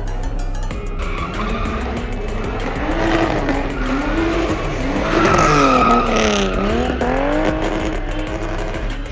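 Sports car drifting: the engine revs up and down over and over while the tyres squeal, loudest around the middle, where the squeal is a high steady tone and the revs drop sharply and climb again.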